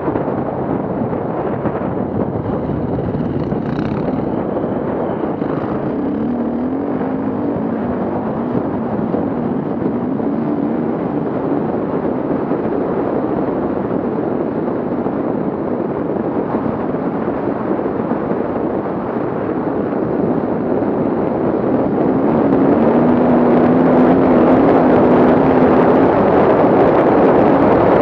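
Off-road vehicle engine running, its pitch wavering up and down, growing louder about three quarters of the way through, under a dense wash of noise.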